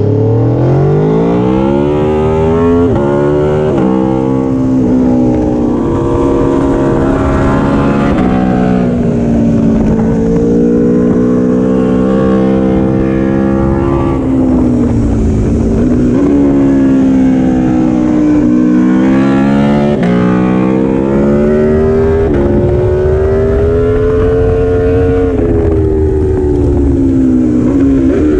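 Aprilia Tuono V4 1100 Factory's V4 engine being ridden hard: it revs up steeply, drops back in pitch at each gear change, then eases off and picks up again several times.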